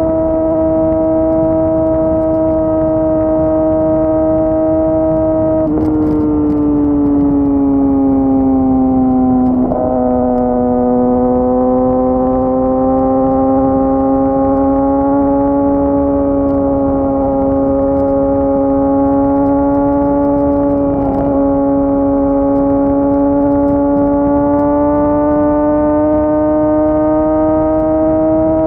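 Yamaha R6 600 cc inline-four sport-bike engine running at high revs with a steady, high-pitched note. The pitch falls from about 6 s in and breaks briefly near 10 s and again near 21 s, then slowly climbs back up.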